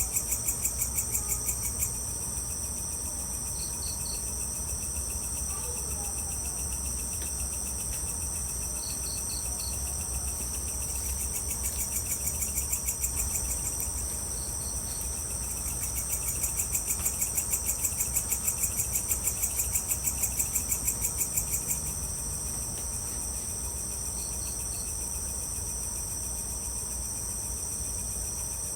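Evening insects trilling steadily at a high pitch, with a louder pulsing chirp of about four beats a second that comes and goes. Short triple chirps recur every few seconds over a faint low rumble.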